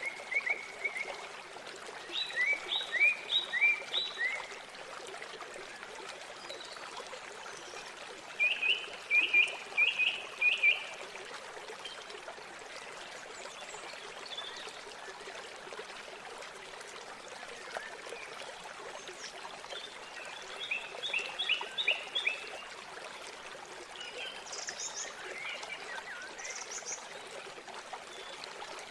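Steady rush of river water, with a bird calling in short runs of four to six quick chirping notes three times, and a few higher single notes near the end.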